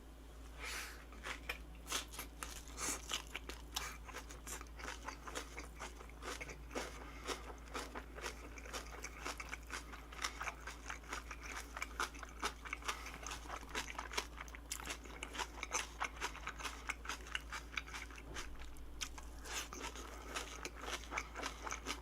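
Close-up crunching and chewing of a mouthful of bossam: boiled pork wrapped in crisp kimjang napa cabbage kimchi with raw garlic and green onion. Rapid crisp crunches, several a second, easing off briefly near the end.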